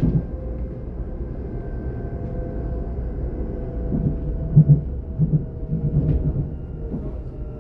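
Class 422 electric multiple unit running, heard from inside the passenger cabin: a steady low rumble with a thin traction motor whine that sinks slightly in pitch. A run of low thumps from the running gear comes from about four seconds in to past six seconds.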